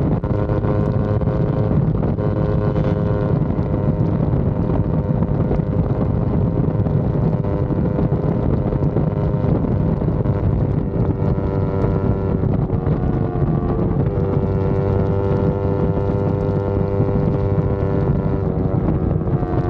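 Yamaha R25's parallel-twin engine running at steady revs under way, with wind buffeting the microphone. The engine note drops slightly about two-thirds of the way through.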